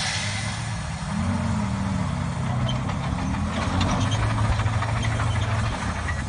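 A large vehicle engine running, its pitch rising and falling between about one and three and a half seconds in, over a steady rushing noise.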